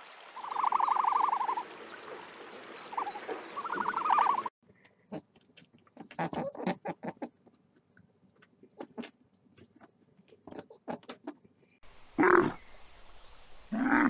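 A sequence of animal sounds: a rattling trill twice in the first few seconds, then a scatter of sharp clicks, then a loud, low camel grunt near the end.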